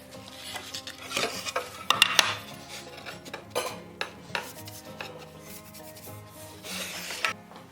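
Hand-tool work on wood: scraping or rasping strokes and several sharp knocks, over quiet background music.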